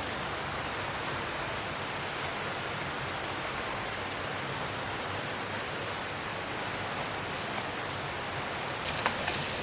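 Steady rushing of a shallow valley stream flowing, with a couple of light clicks near the end.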